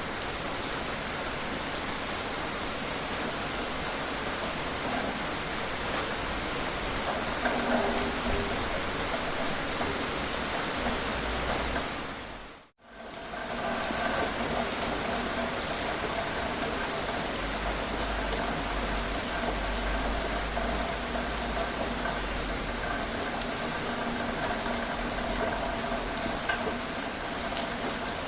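Steady rain falling and pattering on surfaces, with no thunder. About halfway through it fades out to silence for a moment and comes straight back, as at the seam of a looped recording.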